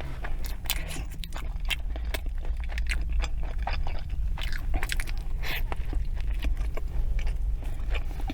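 A person chewing and biting food close to the microphone, with many short, sharp, wet mouth clicks over a steady low hum.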